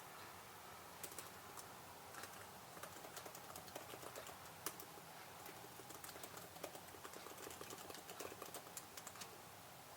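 Faint computer-keyboard typing in quick bursts of keystrokes with short pauses between them. One keystroke, about halfway through, is louder than the rest.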